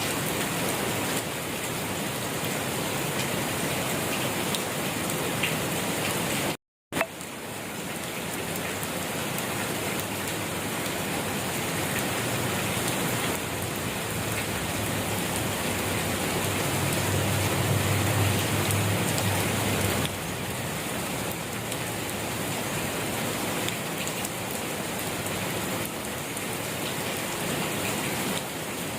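Steady rain falling and pattering on surfaces, an even hiss. It cuts to silence for a split second about seven seconds in, and a low rumble swells briefly a little past the middle.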